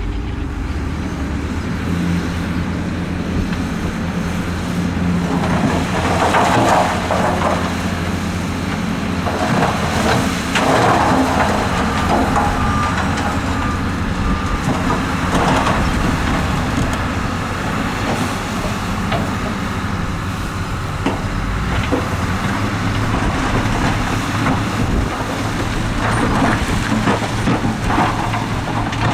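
Heavy diesel earthmoving machinery running steadily under load. Several louder, noisier surges come and go over it.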